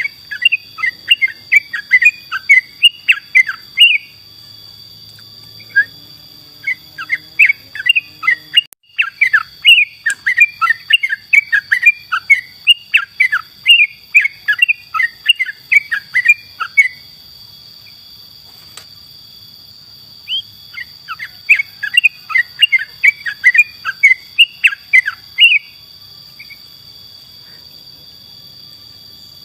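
Yellow-vented bulbul (trucukan) singing loudly in three runs of quick chirping notes, with pauses between them. A steady high insect drone runs underneath.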